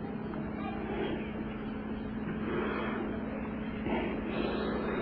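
Steady hum and hiss of an old recording during a pause in the recitation, with a few faint soft swells in the background noise.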